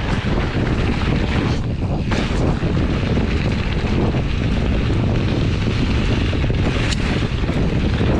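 Wind rushing over the microphone of a mountain bike's ride camera on a descent: a loud, steady rushing with a few brief rattles.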